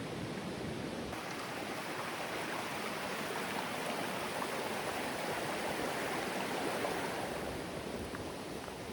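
River water rushing and splashing over rocks, a steady, even rush.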